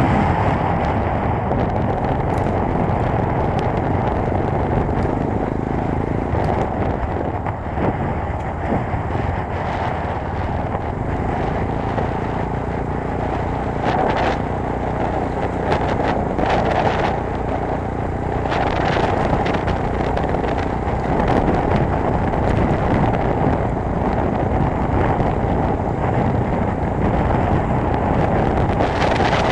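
Chinese 250 cc motorcycle running steadily at speed during a top-speed run, its engine mixed with heavy wind rush on the microphone.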